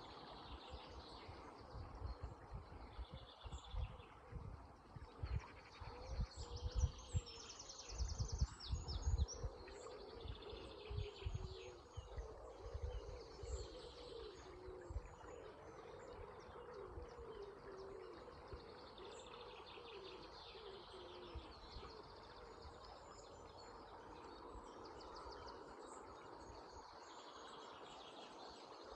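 Dawn chorus of several songbirds singing and chirping over a steady rush of river water, with irregular low rumbles in the first half.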